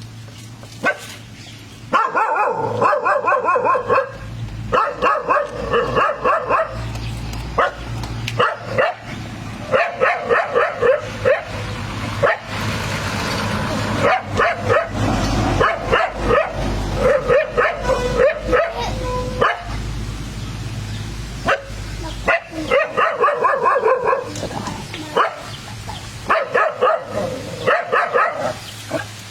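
Dog barking in rapid runs of short, sharp barks, pausing briefly between volleys, as it barks at a fake toy tiger.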